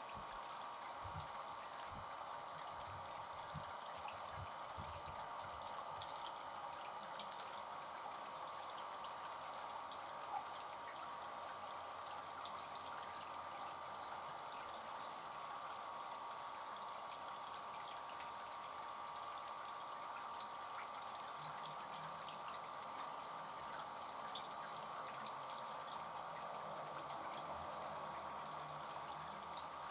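Small fountain bird bath running: water trickling and splashing steadily, with scattered drips and small splashes.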